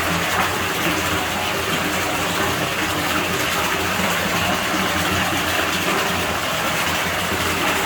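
Water running steadily at a pool villa's pool, a continuous gushing rush with a low hum underneath.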